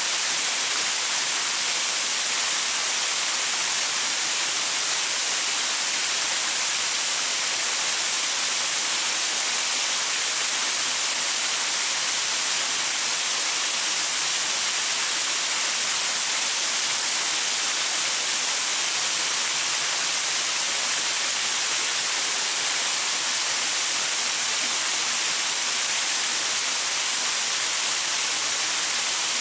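Waterfall pouring over rocks: a steady, even hiss with little low rumble.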